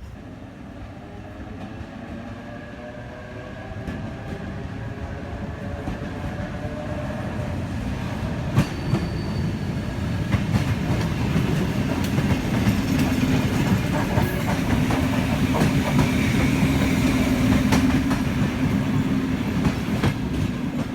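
Train pulling away and gathering speed: a whine that rises steadily in pitch, with rumble and the clatter of wheels over rail joints growing louder.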